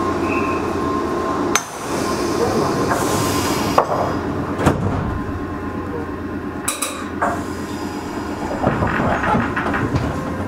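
Meitetsu 6000 series electric train car running: a steady rumble of wheels and running gear with a faint steady tone, and the sharp clunk of wheels over rail joints about five times.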